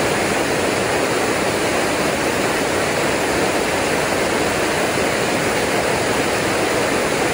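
Creek water rushing steadily, a continuous even rush with no breaks.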